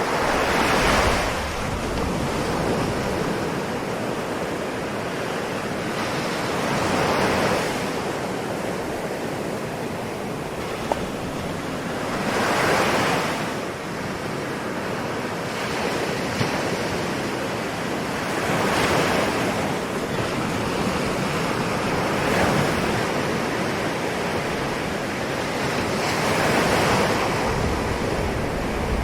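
Ocean waves washing onto a shore, each wave swelling and receding about every six seconds over a constant surf hiss.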